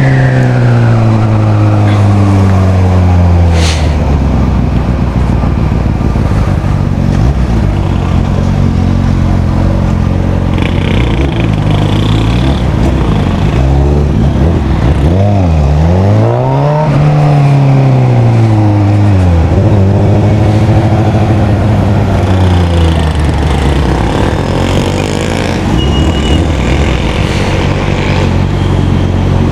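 Yamaha XJ 600 inline-four motorcycle engine running under way. Its note falls at the start, holds steady, then about halfway through drops sharply and climbs back up before easing down and settling again.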